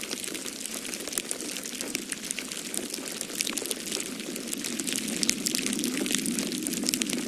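Wood fire in a fireplace crackling, with many irregular sharp pops and snaps, over a steady low rush of snowstorm wind.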